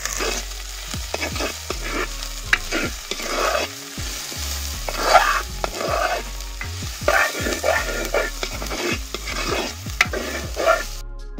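Sliced red onions and curry leaves sizzling in hot oil in a clay pot, stirred with a wooden spatula in repeated scraping strokes against the pot.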